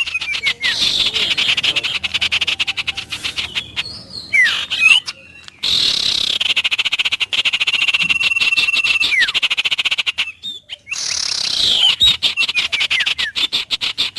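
Wild nature chorus of frogs calling in a rapid, continuous pulsing trill, with birds giving short falling whistles over it. The chorus breaks off briefly twice, about a third and two thirds of the way through.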